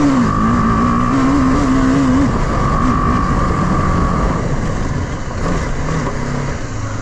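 Motorcycle engine running steadily over a rushing noise, easing slightly in the last couple of seconds.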